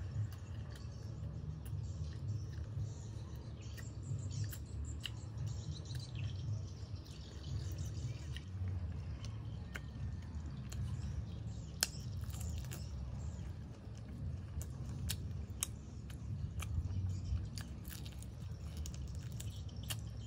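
A person chewing and biting into grilled chicken wings: irregular wet mouth sounds and scattered sharp clicks, over a steady low rumble.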